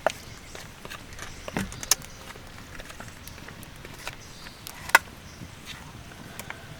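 Scattered sharp taps and knocks, the loudest about five seconds in, over a steady hiss.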